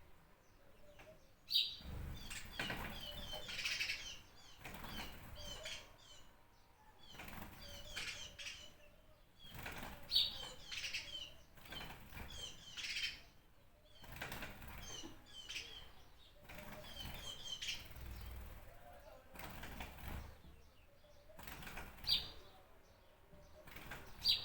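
Small birds chirping in short repeated calls. A sharp, louder chirp stands out a few times, about 1.5, 10 and 22 seconds in and again near the end.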